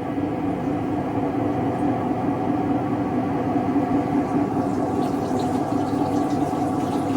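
Siemens WM14T490 front-loading washing machine running with its drum turning, a loud, steady droning hum: the sound of a failed drum bearing.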